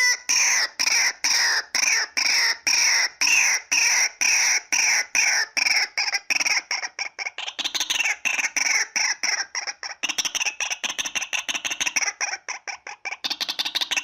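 Female white-breasted waterhen calling: a long run of short, repeated calls at about three a second, quickening into a faster, denser chatter about halfway through. It is a lure recording meant to draw waterhens to a trap.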